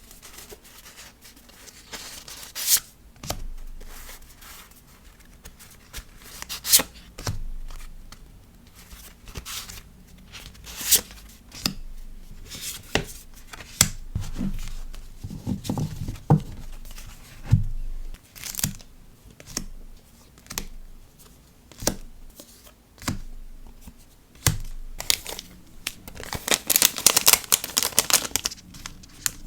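Paper and plastic packaging handled by hand while packing a sticker order: crinkling and tearing with scattered sharp taps and clicks. A longer burst of dense crinkling comes near the end.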